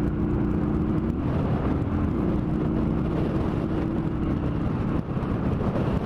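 Motorcycle engine running steadily under a constant rushing noise, its pitch dipping briefly and rising again about two seconds in.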